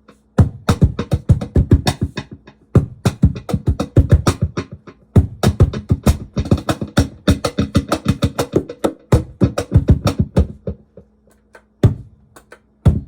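Laptop cajon played in fast, dense hand strikes through a Digitech BP355 multi-effects pedal preset. There are brief breaks, then it thins to a couple of single hits near the end, over a faint steady hum.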